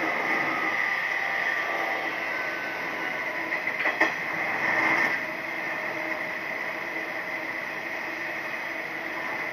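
Running noise inside a Nishitetsu 3000 series electric train at speed: a steady rush of wheels on rail. A sharp knock comes about four seconds in, and a brief louder rush follows about a second later.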